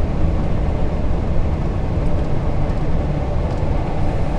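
Scania R420 lorry driving, heard from inside the cab: a steady, low engine and road rumble.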